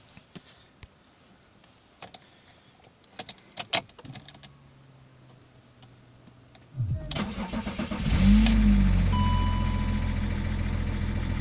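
BMW diesel engine cranked by the starter a few seconds in, catching after about a second, flaring briefly in revs and settling into a steady idle. It is a cold start after a week standing, on a battery recharged from completely flat, and it starts without trouble. Before the cranking, a few clicks of the key and a faint hum.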